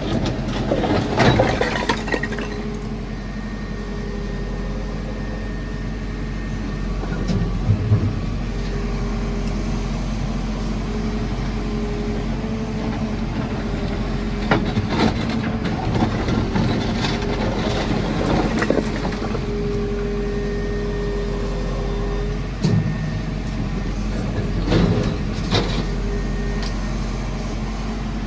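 JCB 4CX backhoe loader's diesel engine running steadily while it digs, with a whine that comes and goes as the hydraulics work. Knocks and scrapes of the bucket in brick ends and concrete rubble come at irregular moments, a few of them louder.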